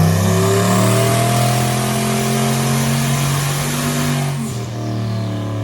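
Turbocharged 5.3-litre Gen 4 LS V8 in an El Camino making a wide-open-throttle pull on a chassis dyno on wastegate boost alone, its note rising slowly. About four and a half seconds in the driver rolls out of the throttle: the loud rushing top end drops away and the engine runs on lower.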